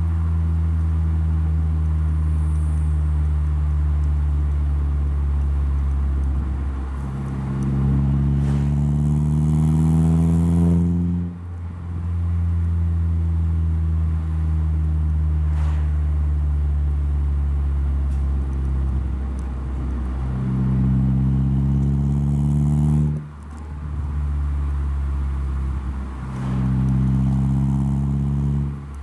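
Saab 9-3 running on a custom hand-made stainless steel full exhaust with a valve, the car under way. The engine drones steadily, then three times the pitch climbs for a few seconds as it accelerates, and each climb ends in a sudden drop, like a lift or gear change, about a third of the way in, about three quarters in and at the very end.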